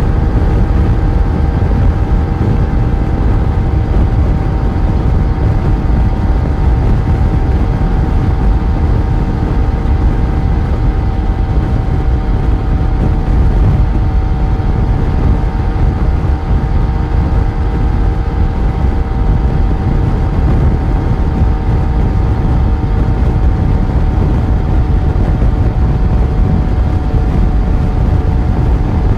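Yamaha FZ1 motorcycle's inline-four engine running under way, holding a steady pitch as the bike cruises at an even speed, over a heavy low rumble.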